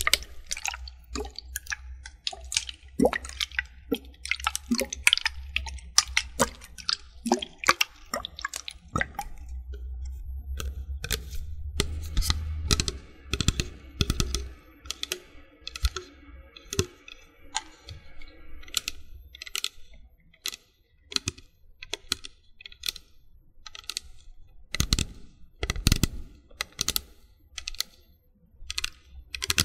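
Close-miked ASMR water-play trigger sounds: a rapid run of crisp clicks and taps with small wet plops. A low rumble sits under the first half.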